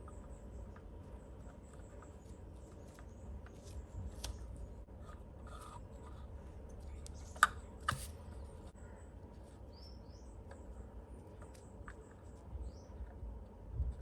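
Scattered light clicks and taps of small kit parts and tools being handled during model assembly, with two sharper clicks about seven and a half seconds in. A few faint high chirps sound in the background.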